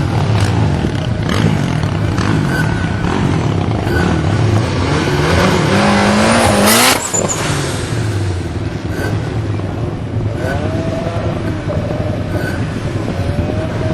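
Car engine running hard and revving: its pitch climbs about five to seven seconds in, ends in a sharp, short burst of noise with the level dropping after it, then rises again near the end.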